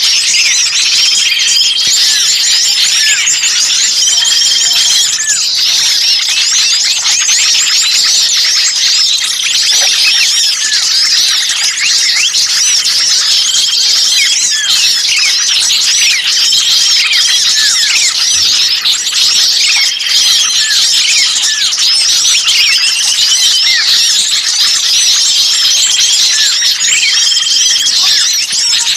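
A dense chorus of many small songbirds chattering and twittering at once. A short, level whistle recurs every few seconds over the chirps. This is a bird-lure recording of noisy small birds with a trapped bird's agitated calls, played to attract wild birds.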